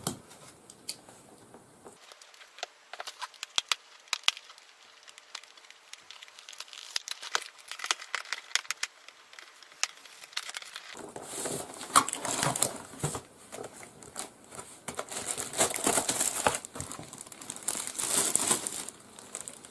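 Unboxing sounds from the keyboard's packaging: a scatter of small clicks and taps, then, about eleven seconds in, several seconds of dense crinkling as the wrapping is handled and pulled off.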